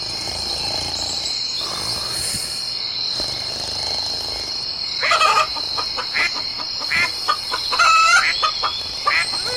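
Chickens clucking and calling in a short run of calls from about halfway in, over a steady high-pitched drone.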